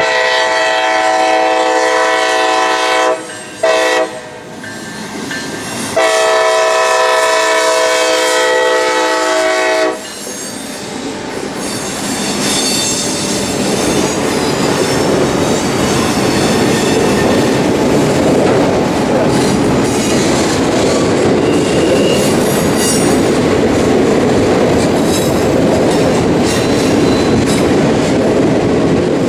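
Diesel freight locomotive's air horn sounding the crossing signal: a long blast, a short blast, then a final long blast of about four seconds. After that comes the steady rumble and clatter of autorack freight cars rolling past.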